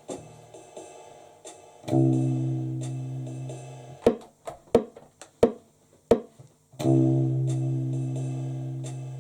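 Guitar music: a chord struck about two seconds in and left to ring out, then a handful of short, sharply cut-off stabs, then another ringing chord near the end.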